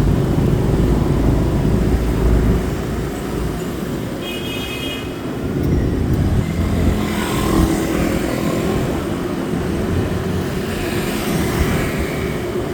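Street traffic heard while riding through the city, with a steady low rumble of wind and engines and louder swells of passing vehicles. A brief high beep sounds about four seconds in.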